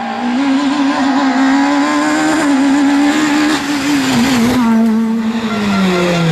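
Rally car engine at high revs on a stage, its note wavering as the driver works the throttle, then dropping steadily in pitch over the last second or so as the car goes by and away.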